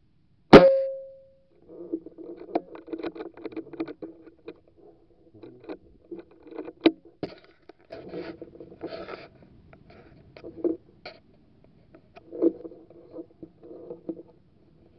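A single sharp air rifle shot about half a second in, with a short ringing tail, followed by irregular scraping and knocking.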